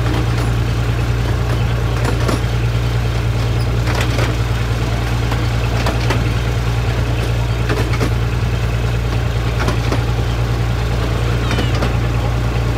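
Miniature passenger train running along the track, heard from an open carriage: a steady low drone with rattling, and a sharp click about every two seconds as the wheels pass over rail joints.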